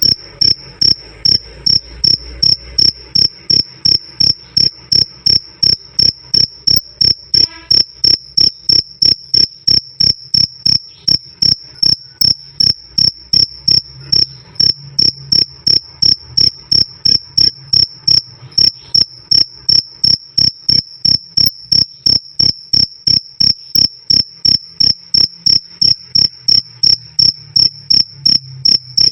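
Male cricket (jangkrik) calling: a loud, steady series of short, high-pitched chirps, about two and a half a second, in an even rhythm.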